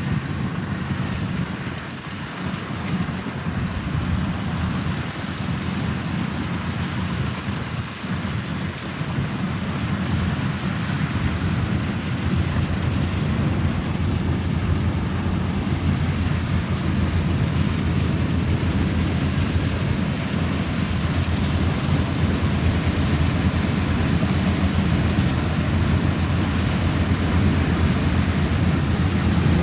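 Combine harvester running steadily: a low, even engine drone under a broad noisy rush, growing slightly louder after about ten seconds.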